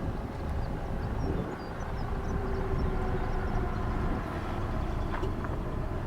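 Diesel locomotive running light with no cars behind it: a steady low engine rumble, with faint bird chirps on top.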